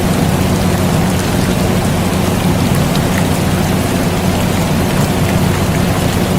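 Steady air conditioner hum with rain falling on a surface, an even mix with a low drone under the hiss of the rain.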